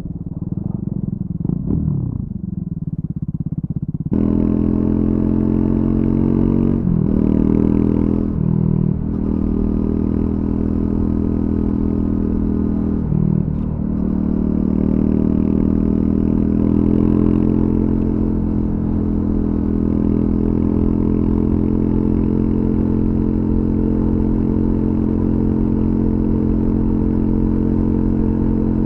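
Triumph Scrambler 400 X's single-cylinder engine running through its stock exhaust, heard from the rider. For the first four seconds it is duller and quieter, then it cuts abruptly to a louder, clearer engine note with three brief breaks in the first half before it settles into a steady cruise.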